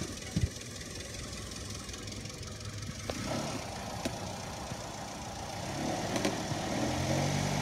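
2008 Mitsubishi Lancer GTS's four-cylinder engine idling as the car is slowly driven toward a ramp, with a few light knocks and the engine note growing louder near the end.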